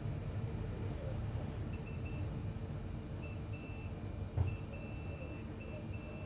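Electronic beeper sounding in an irregular series of short and longer high-pitched beeps, starting and stopping in groups, over a steady low background rumble, with one dull thump about four seconds in.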